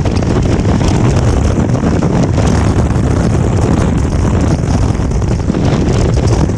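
Loud, steady wind buffeting the microphone of a motorcycle riding through strong wind, with the 2023 Honda Transalp 750's parallel-twin engine running underneath.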